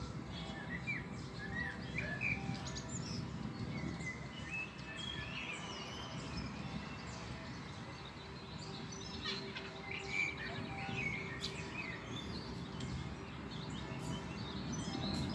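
Several songbirds chirping and calling in short rising and falling notes over a steady low outdoor background noise.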